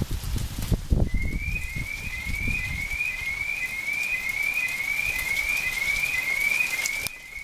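Hail falling in a steady crackling patter while a car alarm sounds a repeating rising whoop, a little over two a second, starting about a second in. Low gusts of wind buffet the microphone.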